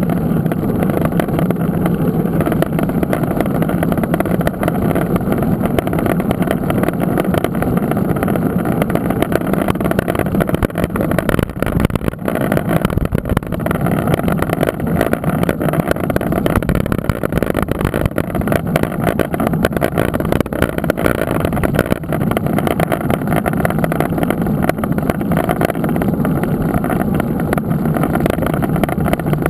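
Loud, steady rumble of wind buffeting the microphone of a camera riding on a mountain bike, with tyre and trail noise mixed in.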